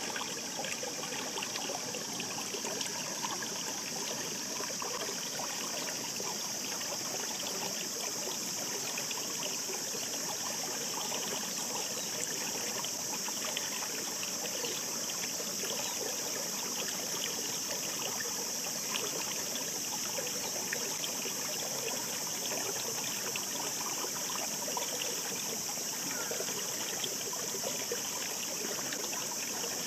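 Shallow mountain stream babbling: a steady rush of running water with constant small splashes and gurgles.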